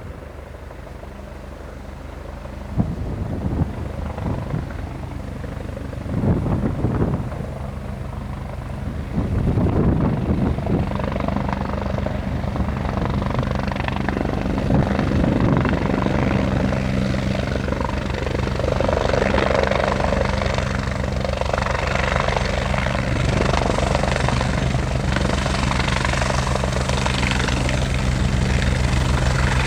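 Helicopter rotor and engine running, with a steady low rotor beat; the sound jumps up about nine seconds in and keeps building slowly. Gusts of strong wind buffet the microphone in the first part.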